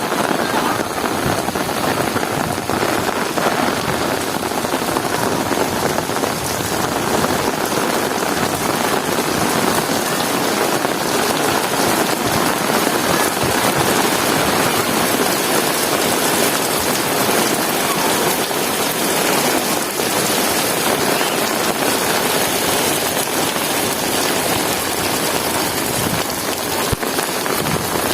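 Heavy rain falling steadily and pattering on hard surfaces.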